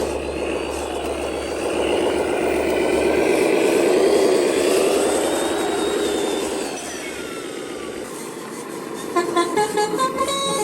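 Heavy truck's diesel engine revving under load, its pitch rising and then falling, loudest about four seconds in before easing off. Near the end comes a run of short vehicle horn toots at several pitches.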